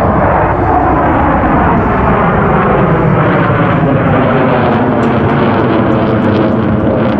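Jet noise from Blue Angels F/A-18 Super Hornets flying past, a loud continuous roar whose pitch drops in the first second or so.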